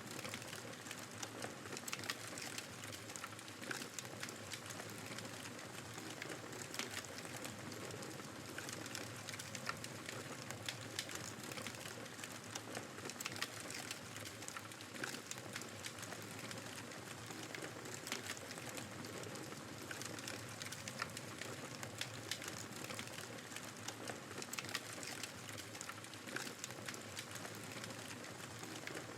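Wood fire crackling, with many irregular sharp pops and snaps over a steady rushing hiss of blizzard wind.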